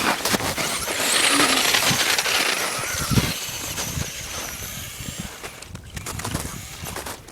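Small remote-control truck driving over the ground, a rushing noise that swells about a second in and fades away over the following seconds, with a few scattered knocks.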